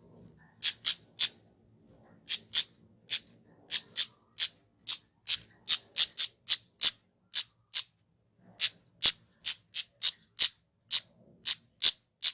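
Kemade flowerpecker calling: a rapid series of short, sharp, very high-pitched chip notes, about two to three a second with some in quick pairs, with no song phrase between them.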